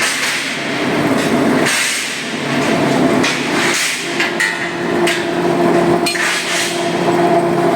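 Loud industrial machinery din with repeated metal bangs and clanks at uneven intervals. A steady hum joins about four seconds in.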